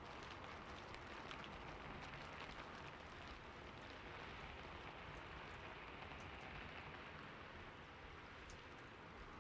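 Steady rain falling on a roof: a faint, even hiss with scattered small drop ticks.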